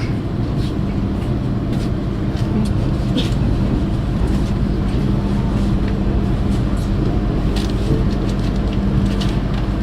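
Steady low rumble and hum of the Harina passenger train, with a few faint clicks and knocks.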